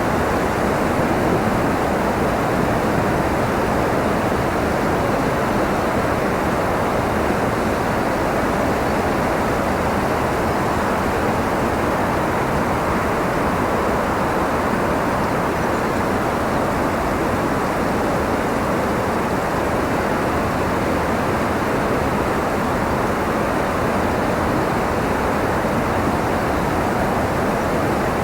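Steady wind: an even rushing hiss with no gusts or swells, fuller in the low and middle range than at the top.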